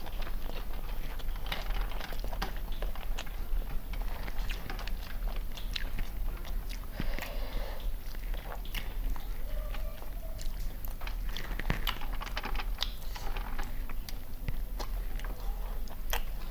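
People eating country chicken biryani, with many irregular wet chewing and biting clicks and some crunching, over a steady low hum.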